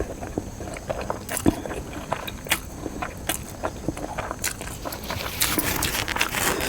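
Close-miked eating sounds: chewing with irregular wet smacks and clicks, getting denser and louder near the end.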